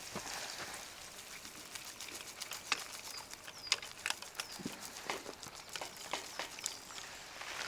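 Wood campfire crackling, with scattered sharp pops and snaps over a faint hiss.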